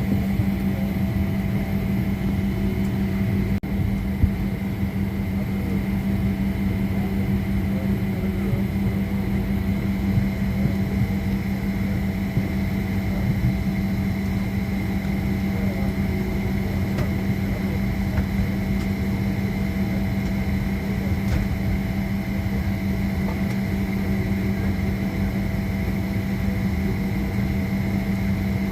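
Steady mechanical hum inside a parked jet airliner's cabin, with a strong low steady tone and a fainter high whine over a rumble.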